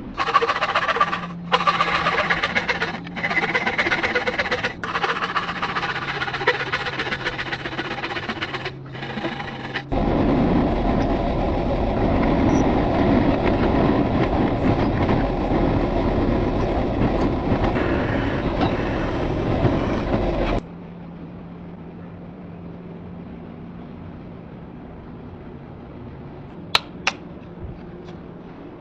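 Electric power tool, likely a grinder, running on metal: a steady motor hum with harsh grinding that breaks off briefly every second or two, then a louder, deeper grinding stretch, then the motor humming alone with a couple of sharp clicks near the end.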